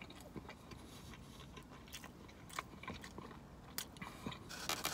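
A person chewing a mouthful of soft hot dog and bun, faint, with scattered small wet mouth clicks, a few of them a little louder near the end.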